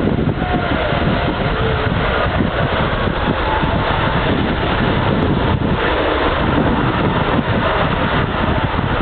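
Airbus A380's four jet engines at takeoff power: a loud, steady rumble with a few faint pitch glides, and wind buffeting the microphone.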